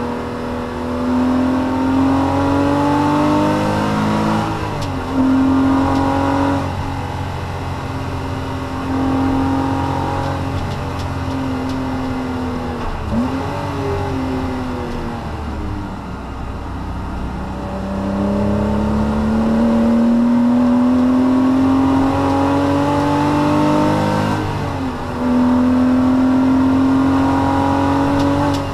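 Porsche Cayman S (987.2) flat-six engine under hard acceleration, heard from inside the cabin. The revs climb steadily and dip briefly at gear changes, three times. Near the middle the revs fall lower, then rise again in one long, slow climb.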